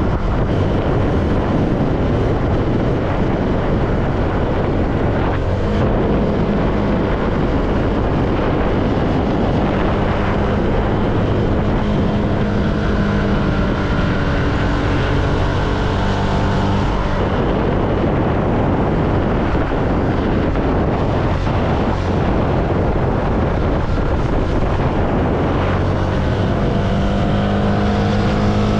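CFMoto motorcycle engine running at road speed under a steady rush of wind on the rider's microphone, its engine note shifting in the middle and again near the end.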